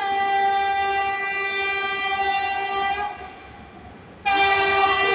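EP20 electric locomotive's horn sounding two long blasts: the first lasts about three seconds, and the second starts just over a second after it stops.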